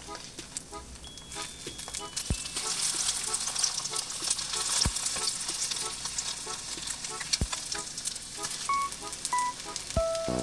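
Egg-dipped zucchini rounds frying in oil in a pan: a steady crackling sizzle. Faint background music plays under it.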